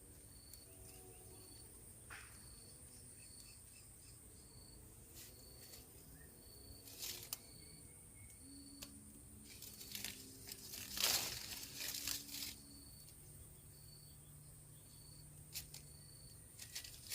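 Crickets chirping in short, evenly repeated pulses over a steady high insect hum. Rustling and crinkling noises, loudest about ten to twelve seconds in, and a few faint low tones partway through.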